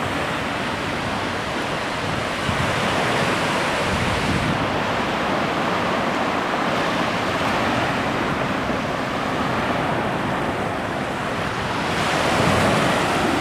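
Steady rush of ocean surf, with wind on the microphone, swelling a little near the end.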